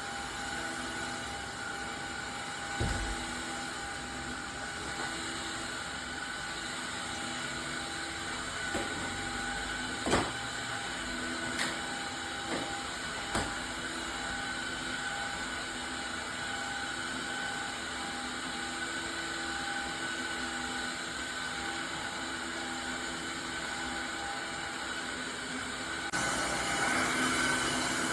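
Tineco iFLOOR 2 cordless wet-dry floor cleaner's motor running with a steady hum, with a few light clicks and knocks. The sound shifts and grows louder near the end.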